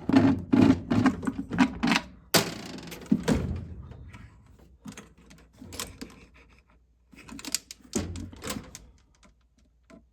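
Quick runs of clicks and clatter from furnace fittings, hoses and tools being handled during disassembly. Just after two seconds in there is a louder rustling clatter that fades over about a second.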